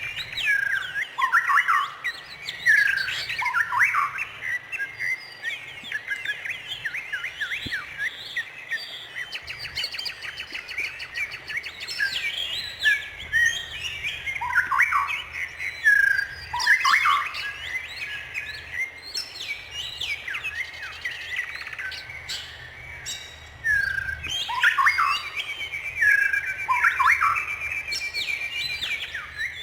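Several birds chirping and calling, with quick sweeping notes and a rapid trill near the end.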